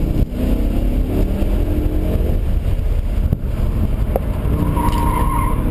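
2006 BMW M5's V10 engine revving hard under acceleration, heard from inside the cabin, its pitch climbing with a brief dip about three and a half seconds in. Tyres squeal briefly near the end as the car corners.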